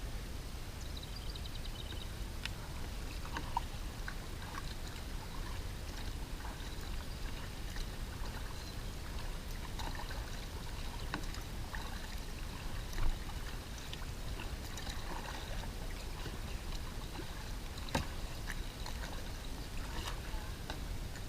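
Kayak paddle strokes: the blades dip and splash, and water trickles off them, over a steady low rumble. A single sharp knock comes about two-thirds of the way through.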